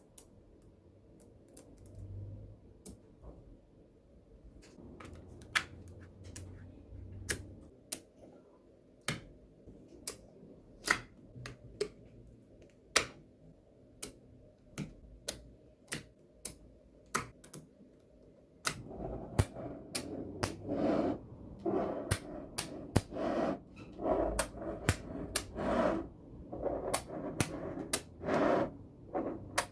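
Small neodymium magnetic balls snapping together with sharp, irregular clicks as they are placed one by one. From about two-thirds of the way in, a louder rustling and rattling joins the clicks in short repeated spells.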